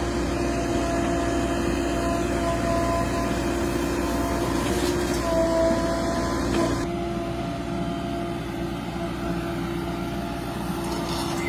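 Heavy diesel engine of earthmoving machinery running steadily, with a steady whine over its rumble. The higher hiss drops away about seven seconds in.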